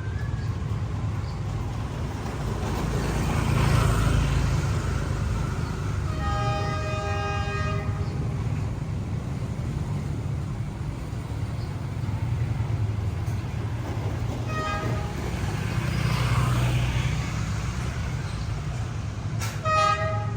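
Train horn sounding: one long blast about six seconds in, then two short toots later, over the steady low rumble of a train on the line.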